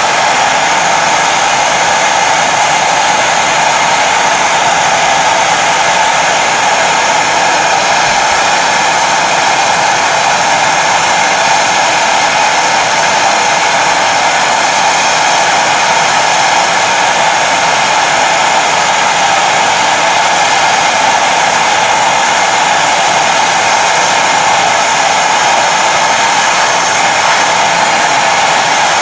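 Gas torch flame burning steadily with a loud, even hiss, heating a wire basket of steel wheel nuts.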